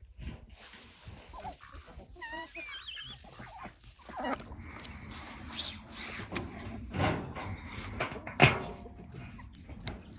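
A dog whining in short wavering calls, among knocks and rustling, with a sharp knock about eight and a half seconds in.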